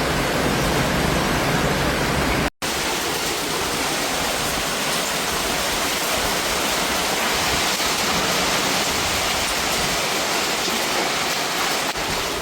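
Storm downpour: a dense, steady hiss of heavy rain pouring down, broken once by a brief gap about two and a half seconds in.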